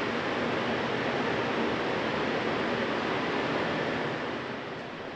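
Steady rushing background noise in a large exhibit hall, with no distinct events, easing slightly near the end.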